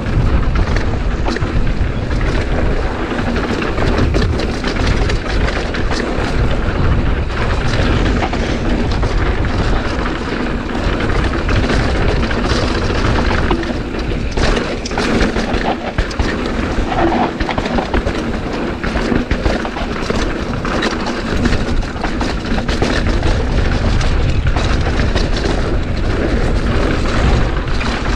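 Strong wind buffeting the action camera's microphone during a mountain bike ride: a loud, constant low rumble, with scattered clicks and rattles from the bike over the trail.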